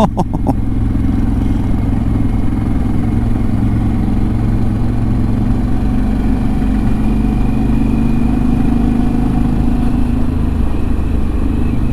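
Adventure motorcycle engine running steadily at road speed, with wind rushing past the bike.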